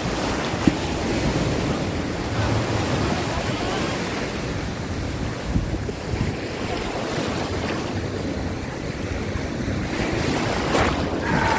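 Sea surf washing steadily under wind buffeting the microphone, with a brief sharp knock about a second in.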